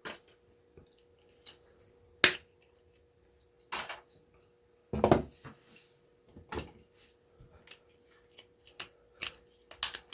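Hand tools snipping and prying at a small electric motor to free its copper winding wires: a few sharp snaps a second or two apart, then quicker light clicks near the end, over a faint steady hum.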